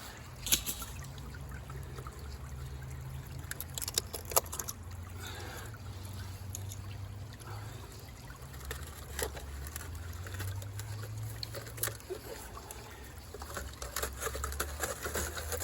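Water trickling and pouring while a homemade gold sluice is rinsed out, with scattered sharp clicks and knocks over a low steady rumble.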